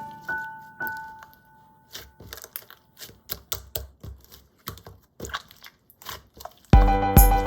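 Slime being pressed and squished in the hands, making an irregular string of sharp clicks and crackles, several a second. Background music fades out at the start and comes back loudly near the end.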